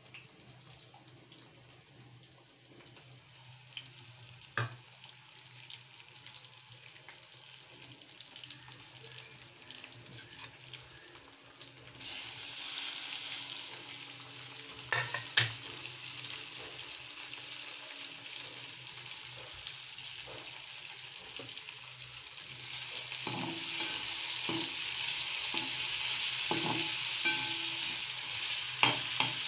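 Vegetables frying in a wok with a steady sizzle that gets louder about twelve seconds in as more go into the pan, and louder again near the end. A few sharp clinks around the middle and a run of knocks near the end come from a plate and a spatula against the pan.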